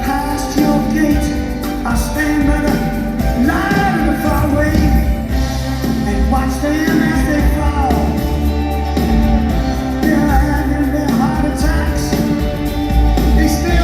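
Live rock band playing, with singing over it, heard through an audience recording of an arena concert.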